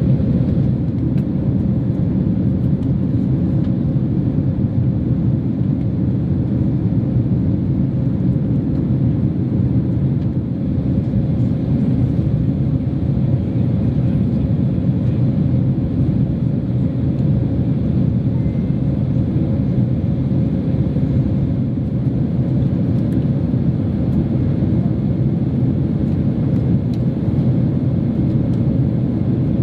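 Steady low drone of a Boeing 767-300 in flight, engine and airflow noise heard inside the economy cabin.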